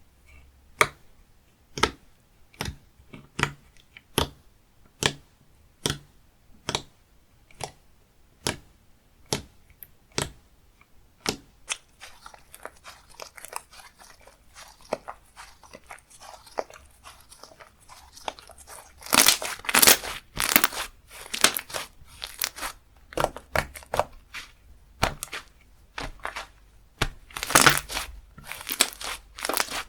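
Slime being played with by hand: first a steady run of squishy pokes or presses, about one a second, each with a sharp click. Then it turns to stretching and tearing, with crackling throughout and loud, dense crackly bursts twice.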